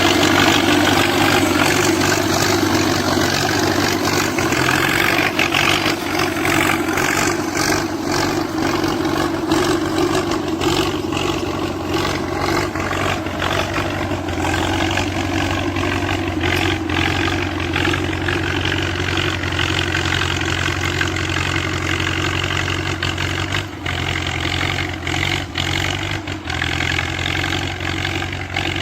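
Diesel engine of a T-74 crawler tractor running steadily while plowing, with short clicks and knocks scattered through the second half.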